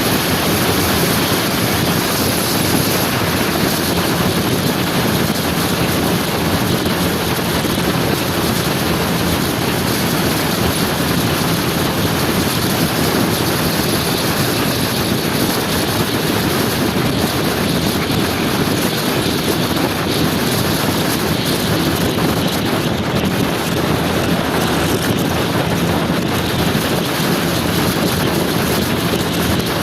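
Steady wind rush over the microphone and a motor scooter's engine running underneath while riding at speed.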